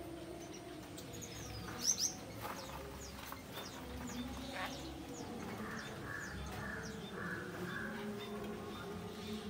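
Faint bird chirps and calls, the loudest a short pair of high chirps about two seconds in, with weaker scattered calls after.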